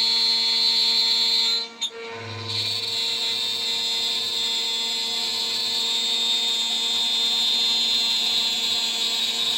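CNC router spindle turning a 3 mm three-flute end mill at high speed while milling a part, giving a steady high whine. The sound cuts out briefly near two seconds in and then resumes, with a low hum added.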